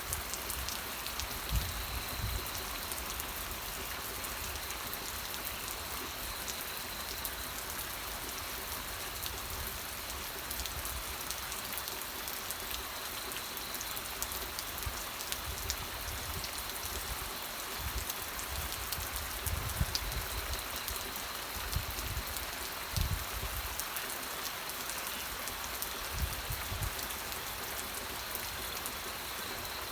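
Steady rain falling, with a continuous hiss and many small drop impacts. Occasional low dull thuds come through, heaviest around the middle and latter part.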